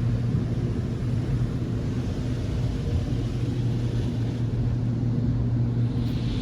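Automatic car wash tunnel machinery heard from inside a car's closed cabin: a steady low hum, with a soft spray-like hiss building near the end.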